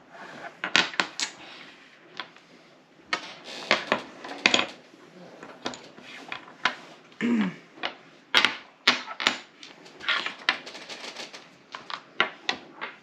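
Hard game tiles clicking and clacking against each other and the table as they are handled and placed: many sharp, irregular clicks, some in quick clusters.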